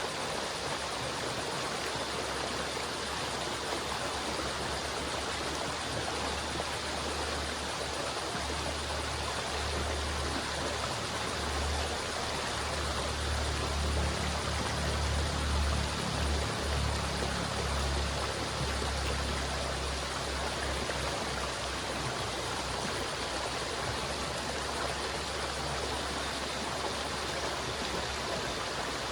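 River water flowing in a steady, even rush, with a deeper low rumble that swells around the middle and then eases.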